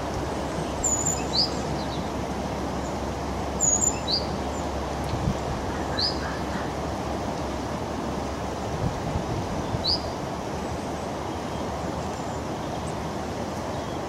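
Small songbird calls: about half a dozen short, high chirps spaced irregularly over several seconds, over a steady outdoor background rush.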